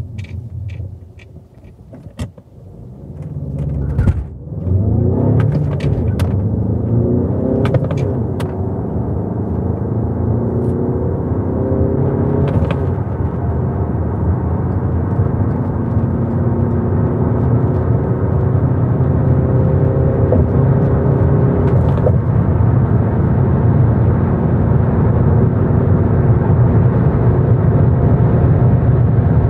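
Volkswagen 2.0 TDI four-cylinder turbodiesel heard from inside the cabin under full-throttle acceleration through the gears of a six-speed manual. The engine note climbs in pitch within each gear and breaks off at each upshift, with a few sharp clicks in the first seconds and a steady rumble that builds with speed.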